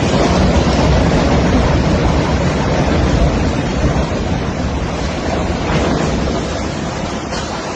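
A loud, steady rush of wind and sea, with wind buffeting the microphone. It is loudest in the first few seconds and eases slightly toward the end.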